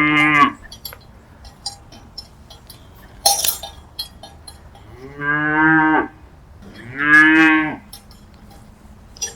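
Cattle mooing: three calls, each falling in pitch and lasting under a second, one at the start, one about five seconds in and one about seven seconds in, with light scattered clicks between them.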